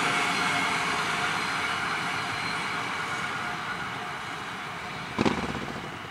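Passenger train rolling away along the track, its wheel-and-rail noise fading steadily as it recedes. About five seconds in, there is a single sharp knock.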